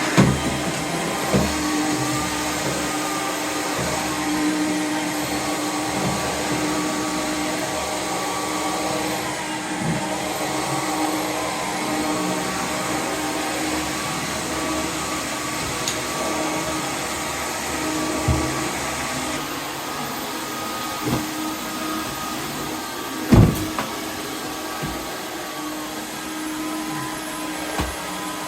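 Dreame H12 Pro FlexReach cordless wet-dry floor washer running, a steady motor and suction hum whose pitch dips and rises a few times. A few knocks from the head on the floor, the loudest about 23 seconds in.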